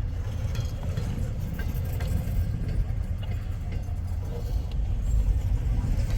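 Steady low engine rumble, with a few faint ticks over it.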